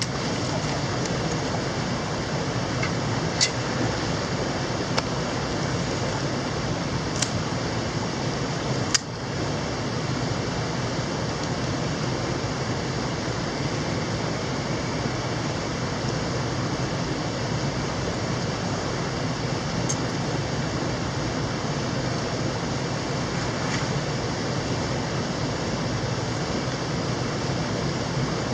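Mountain stream water rushing steadily, with a few sharp clicks in the first ten seconds.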